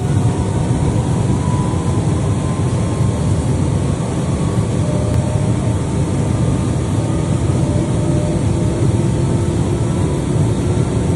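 Steady low rumble of a moving train heard from inside the carriage, with a faint steady whine above it.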